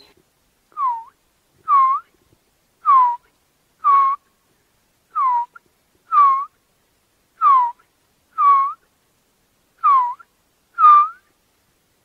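A bird whistling a slow series of about ten clear notes, roughly one a second. Each note slides down and turns slightly up at its end.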